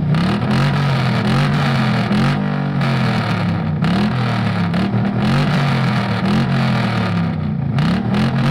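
Chevrolet Caprice engine revved hard over and over through a loud aftermarket exhaust, each rev rising in pitch and dropping back, about one a second.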